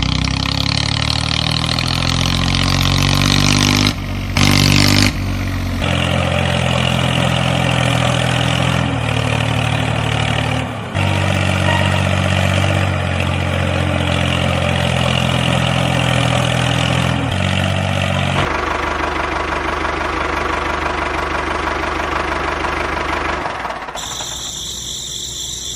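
A motor running with a steady low drone and a hiss above it, changing abruptly in pitch and character several times as the sound cuts from one stretch to the next.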